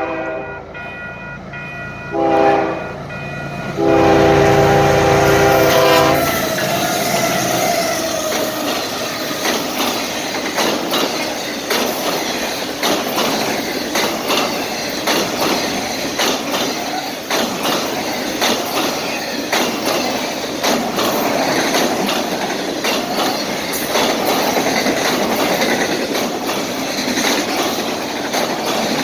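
Freight train locomotive's horn sounding a multi-note chord: a long blast ending just after the start, a short blast about 2 s in, then a loud long blast about 4 s in as the engine passes, the tail of a grade-crossing signal. The train's cars then roll by with a steady rumble of wheels on rail and repeated clicking over the rail joints.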